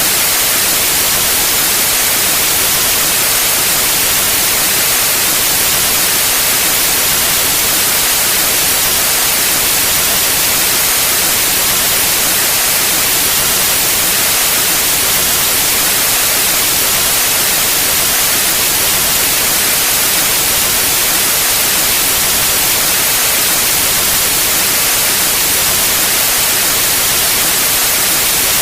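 Synthetic white noise: a steady, unchanging hiss, brightest in the treble.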